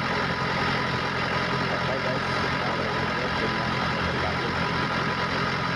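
A truck engine idling steadily while its refrigeration system runs, with a steady high whine above the engine hum.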